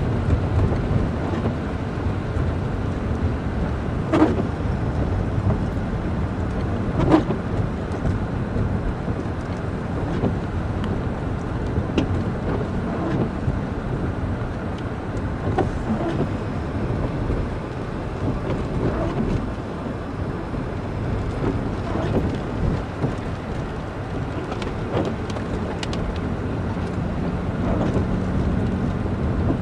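A vehicle driving along a road: steady road and engine noise, with scattered sharp clicks and knocks.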